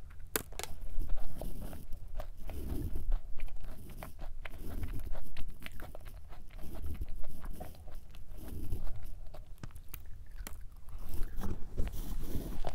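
A bite into a thick Levain-style chocolate chip cookie with a sharp crunch just after the start, then steady chewing with small crunches and moist mouth sounds.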